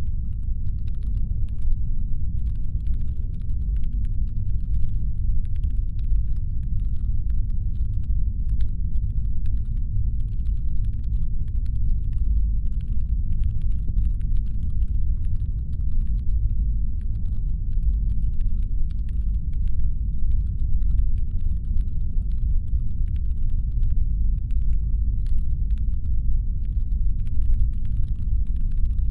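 Constant deep brown-noise rumble, a synthetic spaceship engine hum, steady without change. Faint, irregular clicks like light typing are layered over it.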